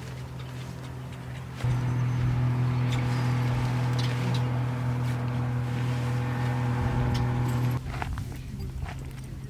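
A steady low mechanical hum, like a running motor. It grows clearly louder about one and a half seconds in and drops back shortly before the end, with a few light clicks over it.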